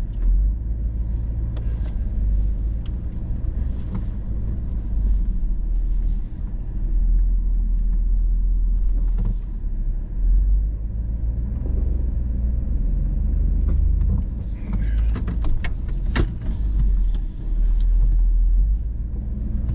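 Low, steady engine rumble heard inside the cabin of a Hummer H2 creeping along a rough trail, with scattered clicks and knocks, a few more of them together near the end.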